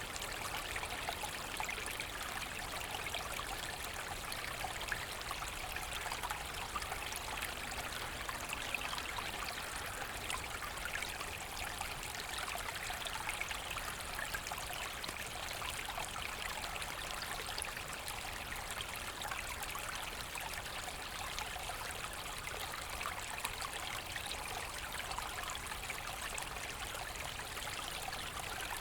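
Small forest brook flowing over stones, a steady babbling and trickling of water.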